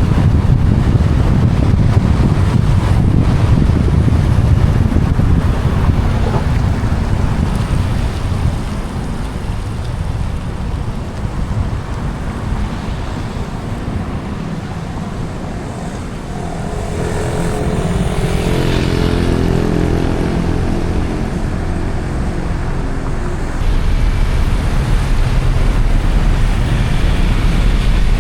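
Car driving on a wet road: steady road and wind rumble, with a pitched engine note rising in for a few seconds about two-thirds of the way through, and the low rumble getting suddenly louder near the end.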